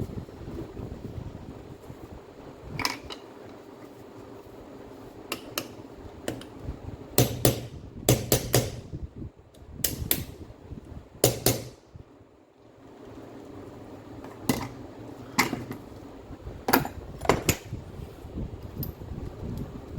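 Scattered knocks and clinks of hand tools and metal parts being handled on a workbench, some in quick pairs, over a steady low hum.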